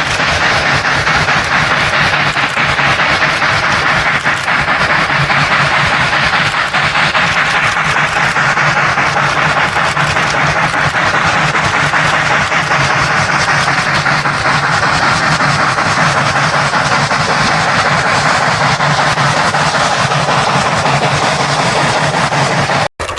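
Steam locomotive working past at speed: a loud, steady rush of exhaust and running noise that cuts off abruptly just before the end.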